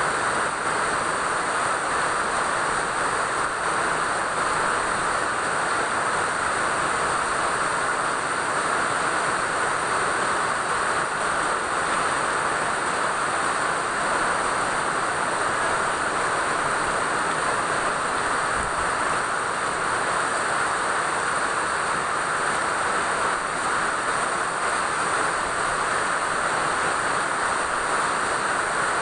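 Steady rain falling, an even, unbroken hiss with no single drops or knocks standing out.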